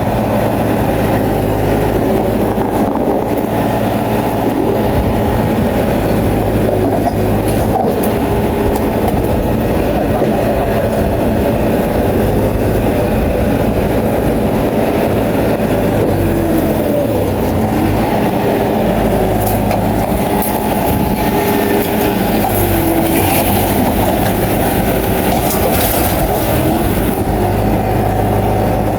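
Crawler bulldozer's diesel engine running steadily under load, with the rattling clank of its steel tracks.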